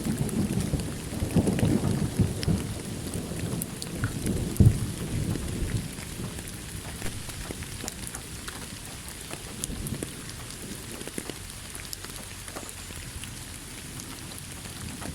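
A thunderstorm: a rolling rumble of thunder, with a sharp crack about four and a half seconds in, fades out over the first six seconds. Steady rain falls throughout, the patter of individual drops heard clearly once the thunder has died away.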